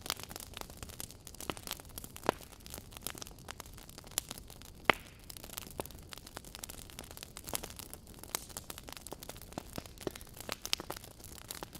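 Fire crackling in a fireplace: irregular small pops and snaps over a soft steady hiss, with one sharper snap about five seconds in.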